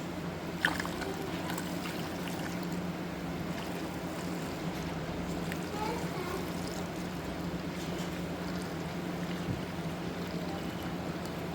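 Citric acid rust remover being poured into a rusty lawn tractor gas tank, a steady trickle of liquid over a low hum, with one sharp click about a second in.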